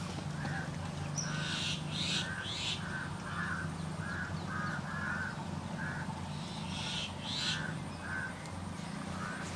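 Birds calling outdoors, a run of short harsh calls a few times a second, over a steady low hum.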